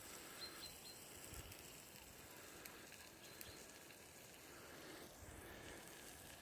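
Near silence: faint outdoor background hiss, with a few brief high chirps about half a second in and again a little after the middle.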